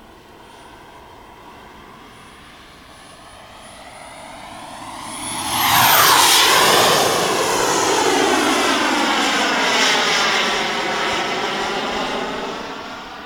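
Model jet with a Jet-Italia Kayman 190 turbine flying past. The turbine's whine and rush build up and peak about six seconds in, with a high whistle that sweeps up and then drops away. The sound stays loud and then fades near the end.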